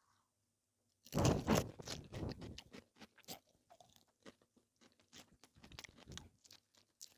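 Close-up chewing of crisp, crunchy food: a loud run of crunching bites about a second in, then quieter, scattered crunches and mouth clicks.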